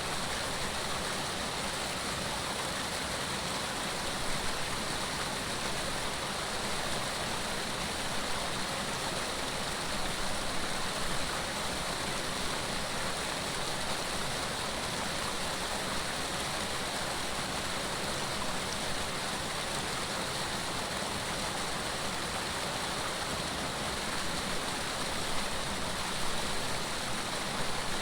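Running water flowing steadily, an even, unbroken rush of sound.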